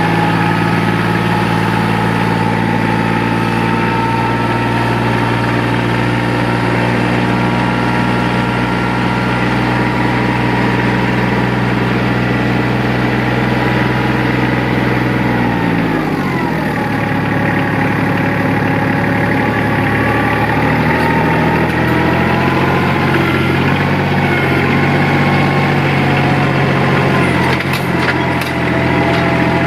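Tractor engine running steadily, then slowing to a lower speed about halfway through and holding there. A few clicks come near the end.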